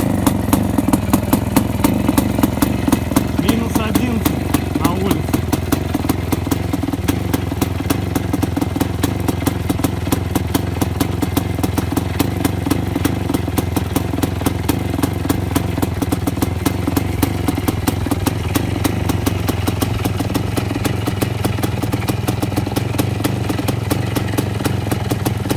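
Voskhod 3M-01 motorcycle's single-cylinder two-stroke engine running steadily, its exhaust beats coming as an even, rapid train of sharp pulses.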